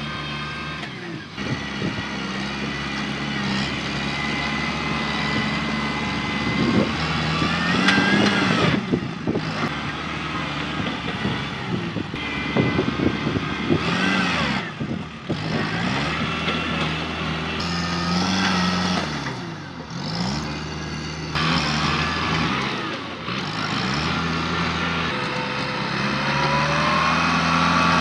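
Tractor engine running hard and revving, its pitch rising and falling as it works, with several abrupt breaks where the sound cuts and resumes.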